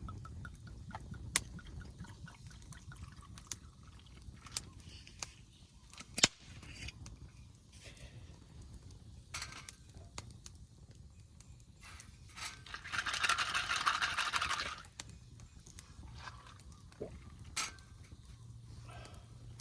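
Liquid pouring for about two seconds near the middle, amid scattered light clinks and knocks of camp cookware.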